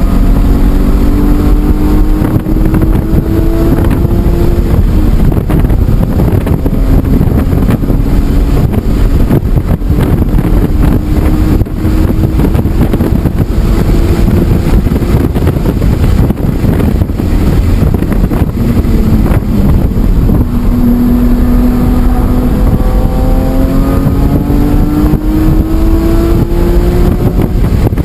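BMW E46 M3's S54 inline-six running hard at high revs, its pitch climbing for the first few seconds and again from about two-thirds of the way through as the car accelerates on track.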